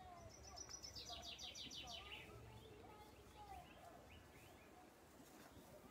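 Faint birdsong: a fast high trill that falls in pitch during the first two seconds, with scattered short, softer chirps throughout.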